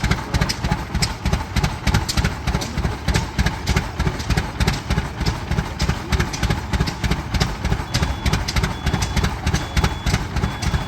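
Antique tractor engine running slowly, its exhaust beating in an even, loud rhythm of about three beats a second.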